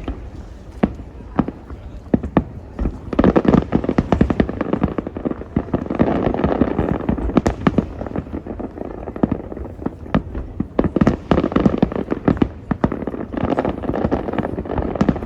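Aerial fireworks display: a steady run of sharp bangs, with several dense volleys of rapid crackling pops packed together.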